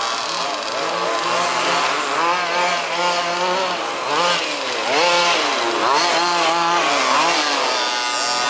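Several 1/5-scale two-stroke petrol RC buggy engines racing together, their overlapping tones repeatedly rising and falling in pitch as the buggies accelerate and back off around the track.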